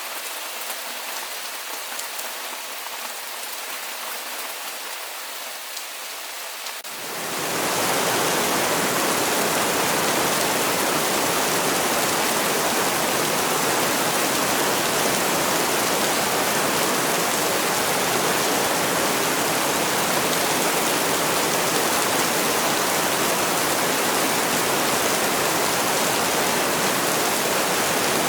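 Rain recording: lighter rain with separate drops audible, then about seven seconds in it swells over a second into a much louder, dense, even rush of heavy rain that holds steady.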